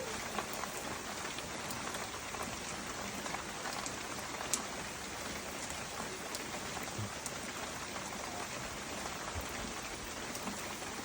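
Heavy rain pouring down: a steady, even hiss of rainfall with individual drops ticking on a surface, one sharper tick about four and a half seconds in.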